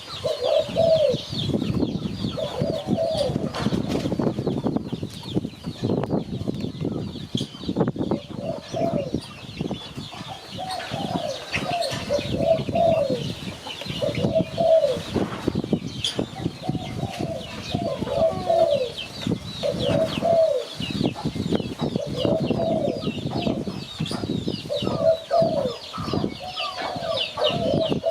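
Spotted dove cooing: short, falling coos in repeated groups of two or three. High chirping of other small birds runs behind it, over a low rumbling background.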